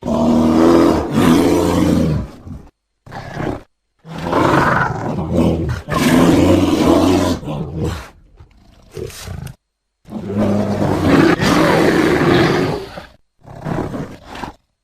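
Bear giving loud, deep calls: three long calls of about two to four seconds each, each followed by a shorter call, with abrupt dead-silent gaps between them.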